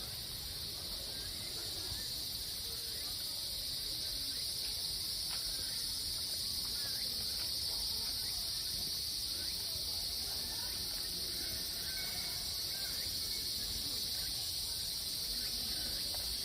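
Steady, continuous high-pitched insect chorus, with faint scattered short chirps underneath.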